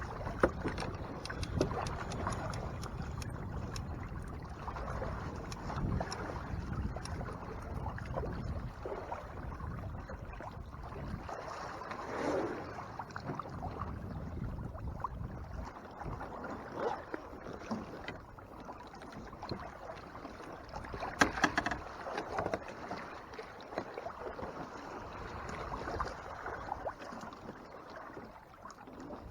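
Water lapping and sloshing against the hull of a Hobie Mirage Tandem Island sailing kayak under way, with low wind rumble through the first several seconds and scattered clicks and knocks, the sharpest a few about two-thirds of the way through.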